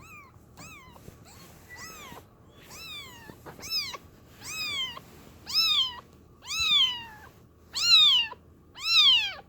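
A young kitten meowing repeatedly, about a dozen short high calls roughly one a second, each rising and then falling in pitch, growing louder toward the end. She has just been fed, so the calling is not hunger: she is simply a very loud kitten.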